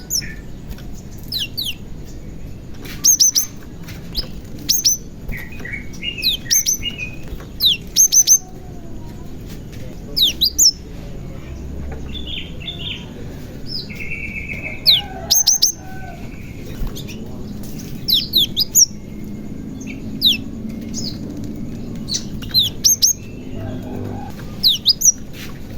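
Cinereous tit (glatik batu) calling and singing vigorously: sharp, high, downward-slurred notes in quick clusters of two or three, repeated every second or two.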